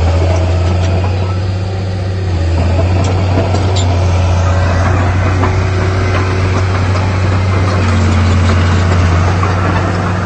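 Heavy diesel engine of earthmoving machinery running steadily with a deep, low drone.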